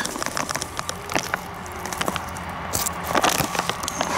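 Foil groundbait bag crinkling and rustling while dry method-mix groundbait powder is poured from it into a plastic bait bowl: a run of small crackles and ticks, with a louder burst of crinkling a little past three seconds.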